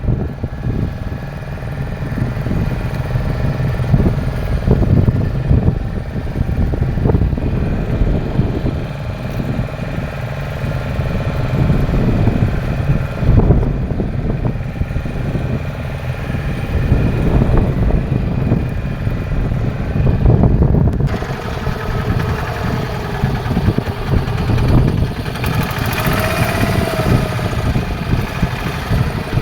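A fishing boat's engine running steadily, with a low drone; about two-thirds of the way through the sound turns brighter and hissier.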